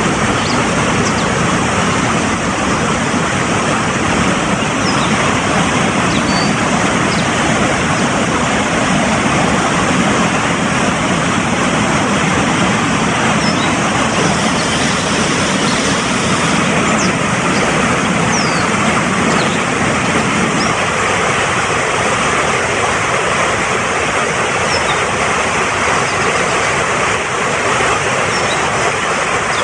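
Fast-flowing mountain stream rushing steadily, with a few faint short bird chirps high above the water.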